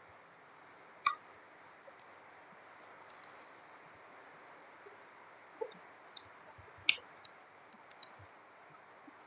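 Close-up mukbang eating sounds: a person chewing smoked pork, with scattered sharp mouth clicks and smacks. The loudest come about a second in and again near seven seconds in.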